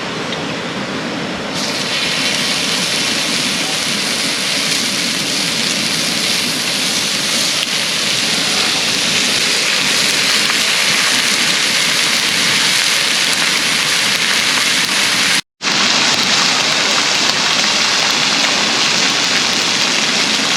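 Slices of pork belly sizzling and spitting on a hot grill, a dense steady hiss that grows louder about a second and a half in. It cuts out completely for a moment just after fifteen seconds, then carries on the same.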